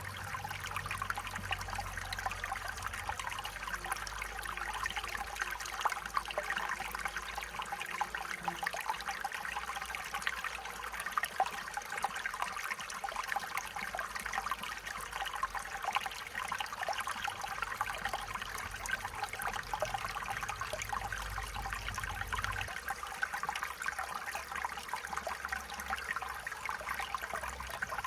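A small stream flowing and trickling over stones, a steady babble of water.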